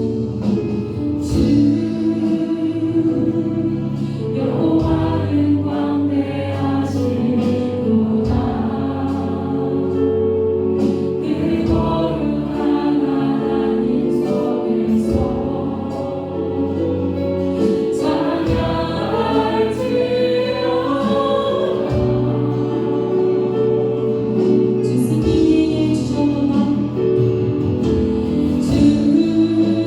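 Praise-and-worship music: a group of voices singing a Korean worship song in unison over band accompaniment, with steady bass notes and percussion strokes.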